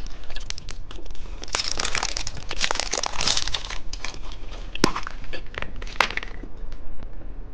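Crinkly plastic candy packaging being handled and torn open, with a stretch of dense rustling and then a couple of sharp clicks.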